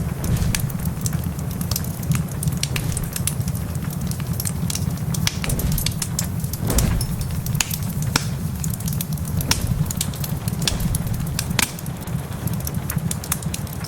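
Wood fire crackling in a fireplace: many sharp, irregular pops over a steady low rumble.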